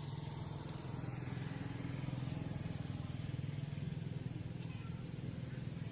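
A steady low hum of an engine running at an even speed, with no change in pitch or level.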